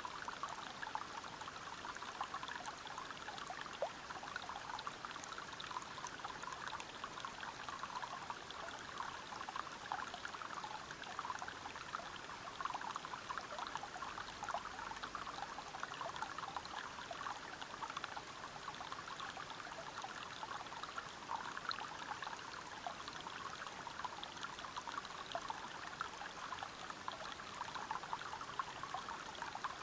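Water flowing and splashing over rocks in a steady, even rush, full of fine splashes, with no change throughout.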